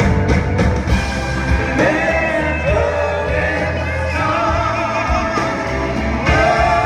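Live blues-rock band playing, with a singing voice over drums, bass and guitar.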